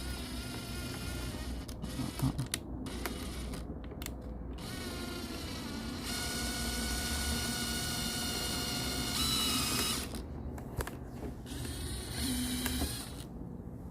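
A small electric driver whirring in runs as it works screws, the longest run about six seconds in and lasting some four seconds, with a few sharp clicks near the start.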